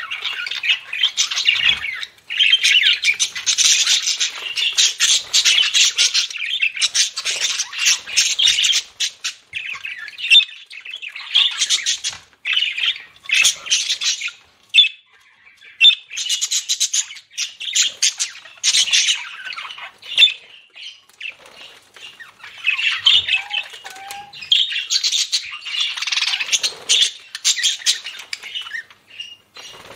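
Budgerigars chattering and squawking: dense, rapid warbling with sharp chirps, in spells broken by brief pauses.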